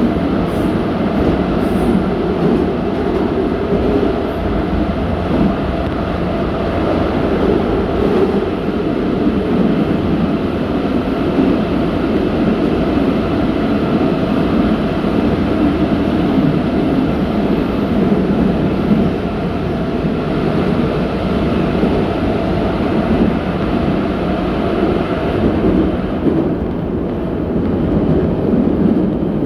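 81-717.6 metro car running between stations, heard inside the car: a steady, loud rumble of wheels on rail and running gear.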